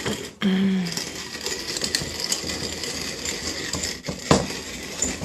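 Hand-cranked manual coffee grinder being turned, its burrs crunching coffee beans in a steady crackling grind. There are brief breaks in the cranking about half a second in and again about four seconds in.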